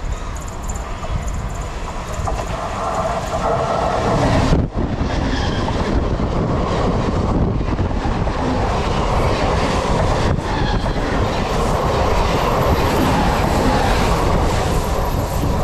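Mumbai suburban electric local train (EMU) passing close at speed, the coaches and wheels rumbling and clattering on the rails. It grows louder about four seconds in as the train reaches the trackside.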